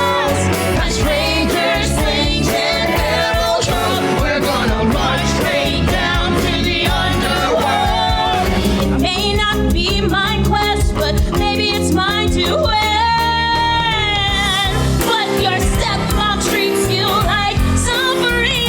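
A musical theatre song: singers' voices, with wavering held notes, over a pop-rock band accompaniment.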